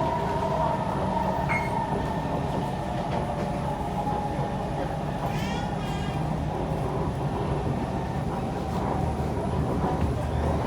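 Kawasaki C151 MRT train running between stations, heard from inside the carriage: a steady rumble of wheels on the track with a constant motor hum, and a brief higher-pitched sound about halfway through.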